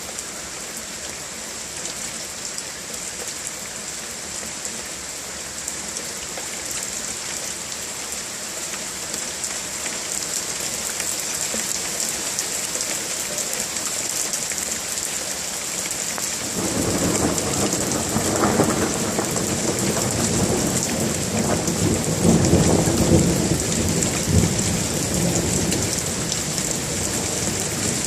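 Steady rain hissing throughout. A little past halfway a roll of thunder starts, rumbling for about ten seconds and loudest about two-thirds of the way through before dying away.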